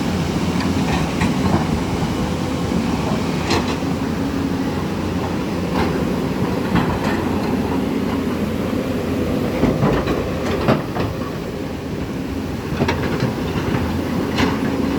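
Floodwater of a swollen river rushing in a loud, steady low rumble, with scattered sharp knocks through it.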